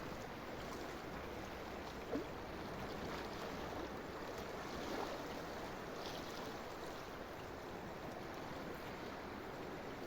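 Steady rush of flowing water after heavy rain, with a brief faint louder moment about two seconds in and another about five seconds in.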